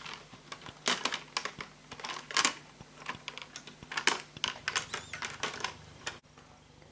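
Irregular clicks and taps of plastic laptop parts being handled as the screen bezel is fitted back around the display, with a few sharper knocks. The clicking stops abruptly a little after six seconds in.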